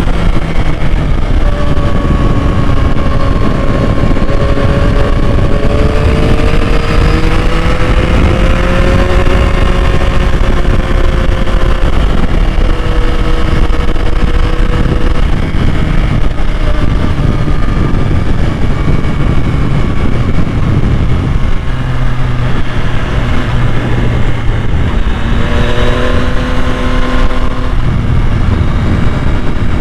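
Yamaha MT-09's 890 cc inline three-cylinder engine running under way, its note rising and falling slowly with the throttle over a heavy low rumble of wind and road.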